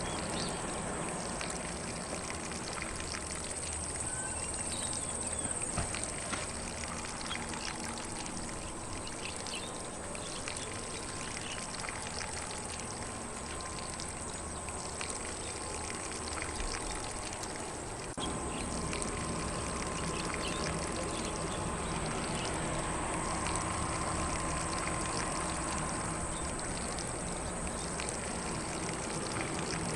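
Lawn sprinkler spraying water across grass in a steady, even spray, with faint birdsong in the background.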